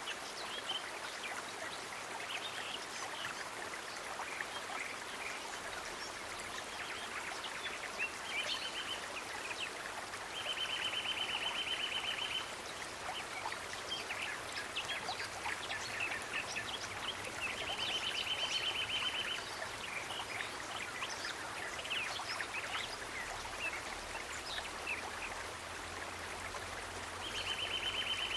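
Running stream water with a scattering of short high chirps, and a rapid high trill of one to two seconds that recurs three or four times.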